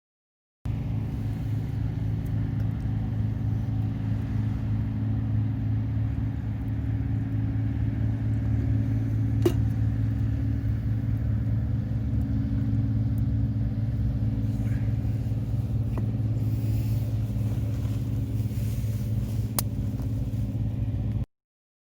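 A steady low engine hum that holds one pitch, with a single sharp click about halfway through.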